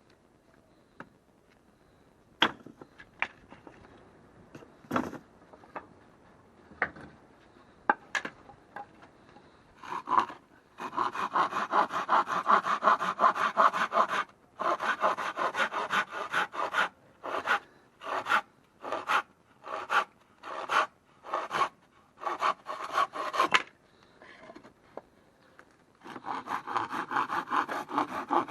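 Hand saw cutting firewood, with fast runs of back-and-forth strokes, then slower single strokes, a short pause and more sawing near the end. A few scattered knocks come first, as the wood is handled.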